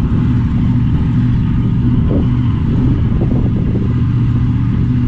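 Supercharged 540-cubic-inch big-block Chevy V8 of a drag-racing altered idling with a loud, steady rumble; the revs hold even throughout.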